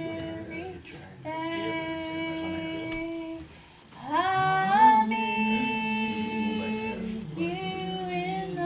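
A woman singing a slow gospel hymn in long held notes. About four seconds in, after a brief pause, her voice slides up into a high held note.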